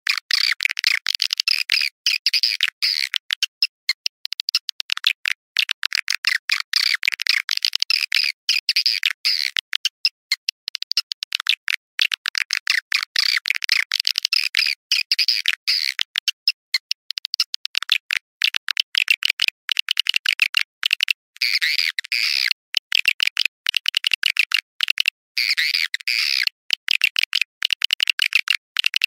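Swiftlet calls: a rapid, continuous chattering of high chirps in quick bursts with short gaps, the kind of recorded call track played to lure swiftlets into a nesting house.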